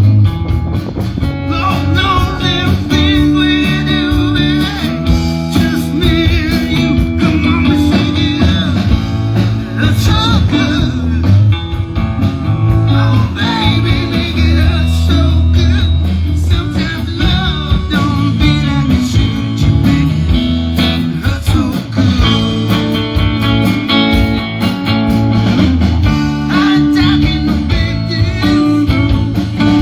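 Live band playing a blues-rock number, with electric guitar over bass and drums.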